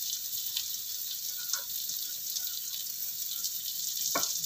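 Spice paste with lemongrass, lime leaves, bay leaves and ginger sizzling in hot oil in a wok as it is sautéed until fragrant: a steady crackling hiss. One brief sharp sound near the end.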